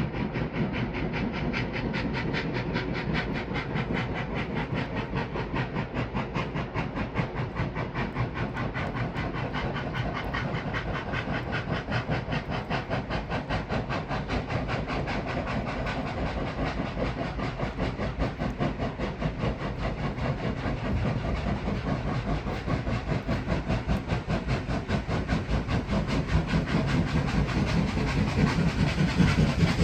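Two steam locomotives, 3526 and 3642, working hard up a grade, their rapid exhaust beats running together in a steady chuffing. The chuffing grows louder over the last few seconds.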